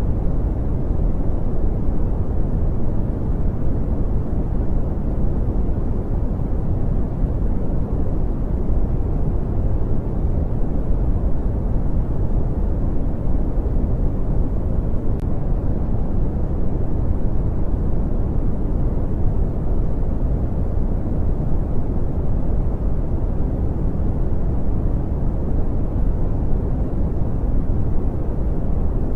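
Brown noise: a steady, deep rumbling hiss with most of its weight in the low end and little treble, unchanging throughout.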